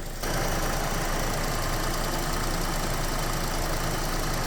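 A car engine idling steadily, with a loud, even hiss of rushing air or spray over it that starts just after the beginning and cuts off near the end.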